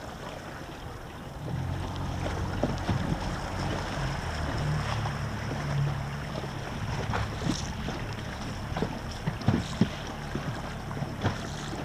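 Wind rumbling on the microphone and water lapping against a small boat's hull, the rumble getting louder about a second and a half in, with several short knocks in the second half.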